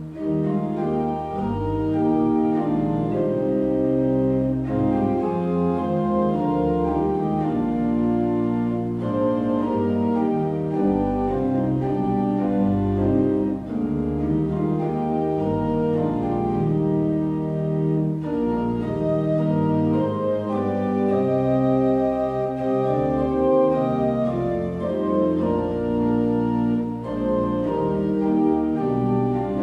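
Organ music: sustained chords moving from one to the next at a steady level.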